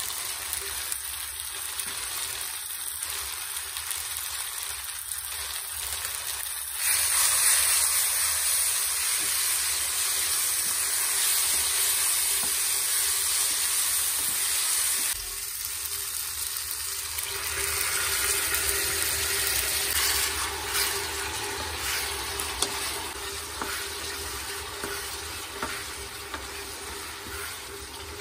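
Onion-tomato masala sizzling as it fries in a pan and is stirred with a wooden spatula. The sizzling turns louder about a quarter of the way in, eases off about halfway, swells again and dies down near the end.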